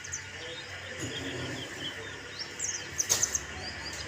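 White-eye (Zosterops) songbird twittering: quick high chirps and short trills, busiest about three seconds in, with one sharp click in the middle of that flurry.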